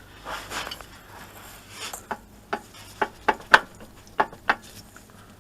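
A string of about seven short, sharp knocks and clinks, the loudest about three and a half seconds in: metal parts and tools being handled during engine work. Softer rustling comes before them.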